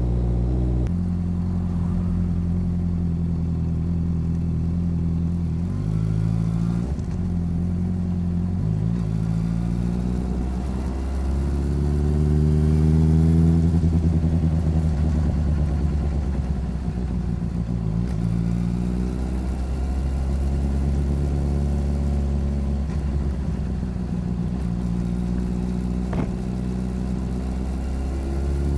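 Motorcycle engine and exhaust running while riding, picked up by a recorder mounted on the side of the bike. The engine pitch climbs as it accelerates about halfway through, then eases back down and runs steadily.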